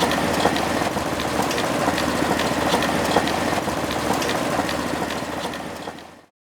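One-third-scale model of a Galloway hit-and-miss engine, a single-cylinder engine, running steadily with a busy clatter of small ticks. It fades out about six seconds in.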